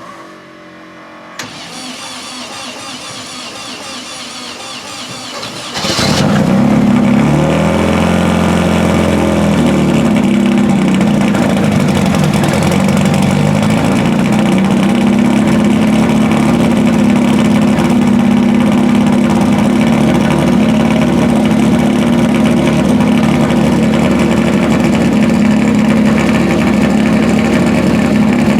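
Turbocharged Volkswagen Beetle engine being started for the first time after its build: a click, then the starter cranks for about four and a half seconds before the engine catches loudly. It is blipped up and down for a few seconds, then settles into a steady idle.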